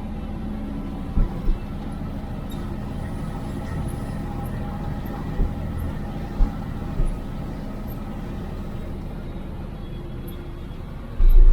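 IFA L60 truck's diesel engine running steadily, heard from inside the cab, with a few short knocks and rattles. A loud low rumble begins just before the end.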